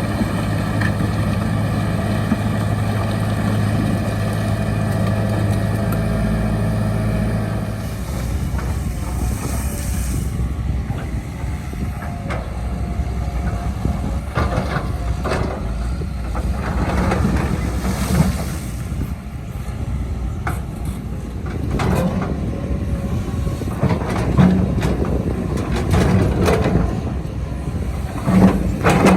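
Heavy diesel earth-moving machine running at a steady engine pitch for several seconds. About eight seconds in, the engine note changes and the sound turns rougher, with scattered clanks and knocks that come more often toward the end.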